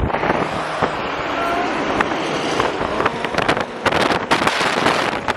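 Car driving, with wind buffeting the microphone: a steady rushing noise with frequent crackles.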